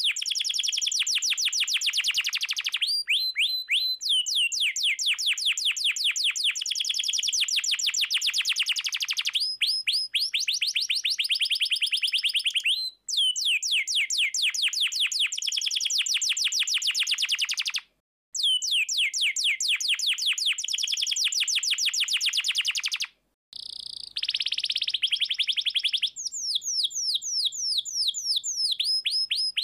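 Domestic canary singing fast rolling trills: long runs of quickly repeated down-sweeping high notes, broken by a few short pauses between phrases.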